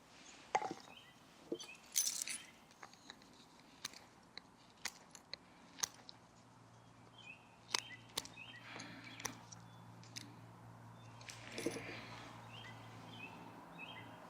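Irregular sharp wooden knocks as a whittled wooden wedge is tapped into a split in a piece of wood with a baton, about a dozen strikes spaced unevenly, some single and some in quick pairs.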